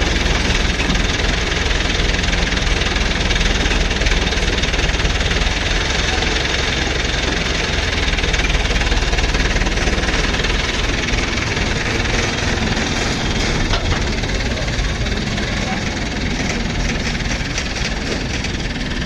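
Mahindra Yuvo Tech Plus 575 tractor's diesel engine running steadily.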